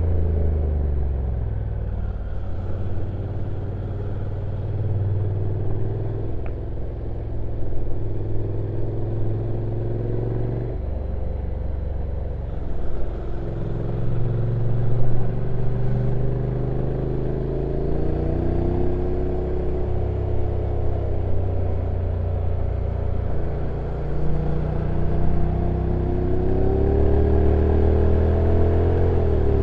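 Honda NC750X's parallel-twin engine running steadily on a downhill ride, its note rising and falling with road speed. The note drops abruptly about eleven seconds in and again near the end as the dual-clutch automatic gearbox changes gear.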